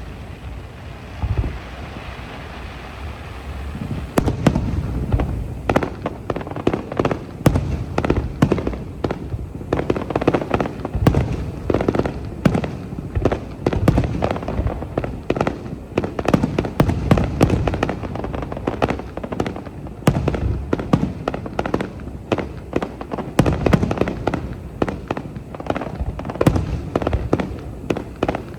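Aerial fireworks display: a hissing crackle with a few scattered bangs for the first few seconds, then a dense run of booms and bangs in quick succession.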